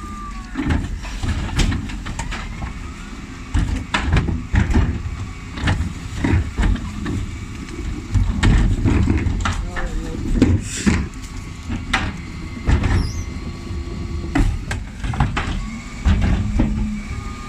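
Dennis Elite 6 refuse truck's engine running, with repeated clanks and bangs from the Terberg OmniDEKA bin lift and the hopper as wheelie bins are handled.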